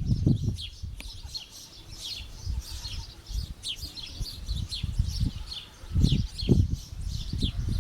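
Small birds chirping over and over in short, quick falling notes, with low gusty rumbles of wind on the microphone, strongest at the start and again about six seconds in.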